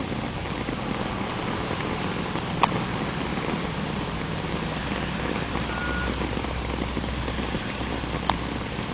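Steady rain falling on an umbrella and the ground around it, with a low steady rumble underneath and two sharp taps, one a few seconds in and one near the end.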